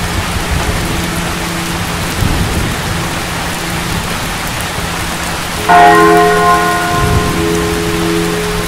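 Steady rain with low thunder rumbles about two seconds in and again about seven seconds in. About six seconds in, a loud bell-like chime strikes once and rings out over a second or two, over low held droning notes.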